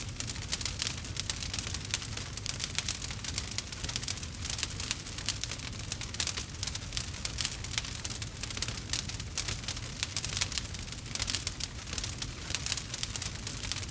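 Campfire crackling with a constant stream of small sharp pops over a steady low rumble.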